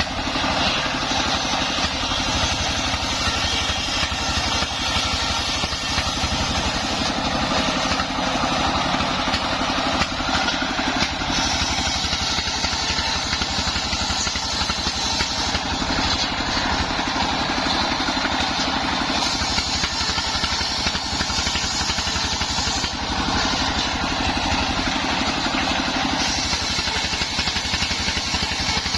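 Engine of a homemade mobile circular sawmill running steadily, with small changes in the higher sound every few seconds.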